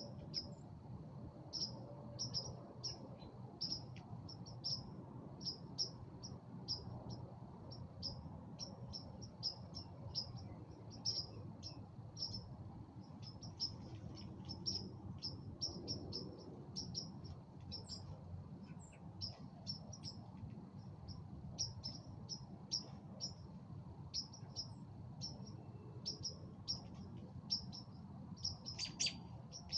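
Birds chirping at dusk: many short, high chirps, a few each second, over a faint steady high tone and a low background rumble.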